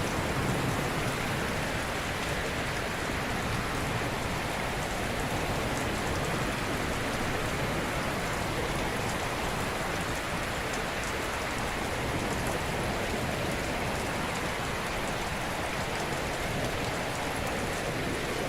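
Steady, even rushing of water with no distinct wave swells, and a fine crackle of drops up high.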